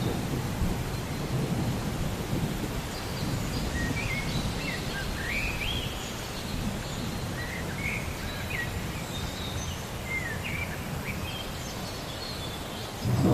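Thunderstorm ambience: steady rain with a low rumble of thunder that swells loudly near the end. A bird chirps in short rising and falling notes through the middle.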